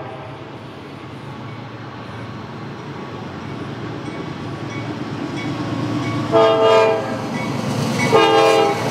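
An approaching CSX diesel freight locomotive: its rumble grows steadily louder, and it sounds its air horn in two short blasts near the end.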